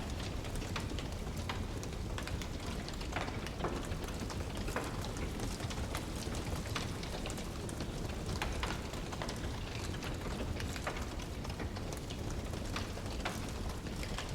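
Wood fire crackling in a fireplace: a steady low rumble from the burning logs, with frequent sharp pops and snaps at irregular intervals.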